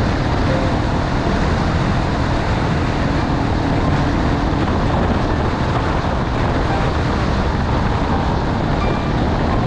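Honda XR250 Tornado's single-cylinder engine running at a steady speed on a gravel road, buried in heavy wind noise on the camera microphone.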